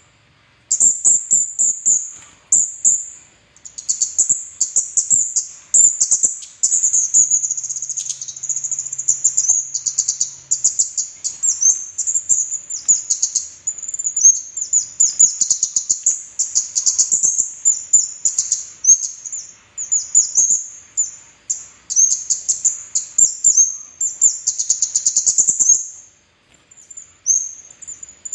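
Kemade, a red-headed flowerpecker, singing: a near-continuous stream of rapid, very high-pitched twittering chirps, with a brief pause near the end.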